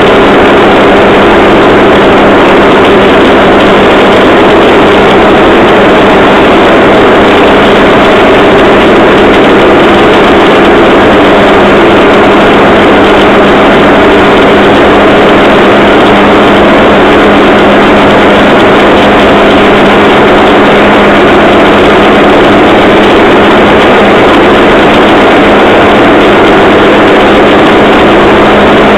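Engine of a handmade rail trolley running steadily under way along the track, a loud, constant drone with an unchanging low tone.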